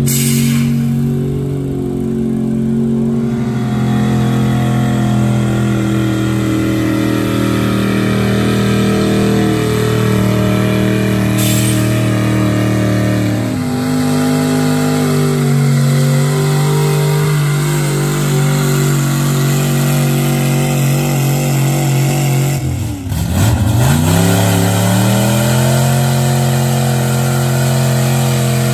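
Truck engine running hard and steady under load, as in a truck pull. Late on its pitch drops sharply and then climbs back up and holds.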